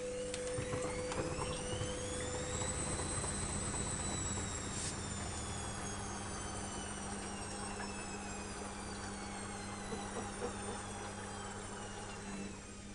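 Electrolux EWS 1045 front-loading washing machine's drum spinning up: its motor whine rises in pitch for about three seconds and holds, then a click about five seconds in, after which the whine falls slowly as the drum coasts down, over a steady low hum.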